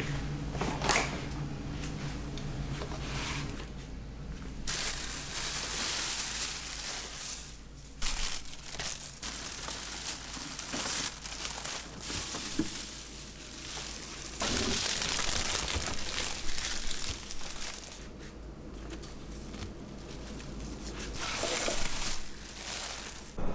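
Packaging crinkling and rustling as it is handled, in stretches of a few seconds with a few sharp clicks, over a steady low hum.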